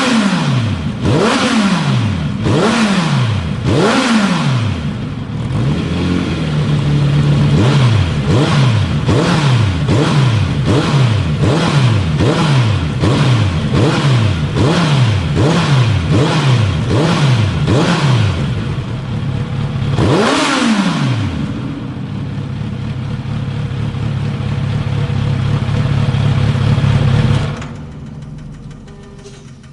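Kawasaki Z900RS inline-four engine and exhaust being blipped: four big revs, then a fast run of short throttle blips about every 0.7 s, one more big rev, and a steady idle. The engine is switched off near the end.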